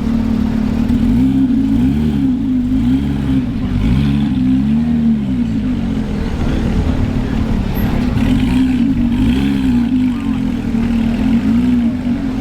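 Car engines running and revving, their pitch rising and falling several times over a steady low rumble.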